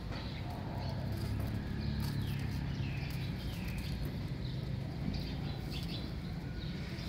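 Small birds chirping in short falling notes over a steady low rumble, with a few faint clicks.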